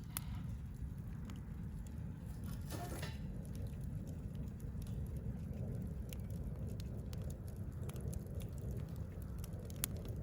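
Wood campfire burning: scattered crackles and pops over a steady low rumble, with a brief hiss about three seconds in and one sharp pop near the end.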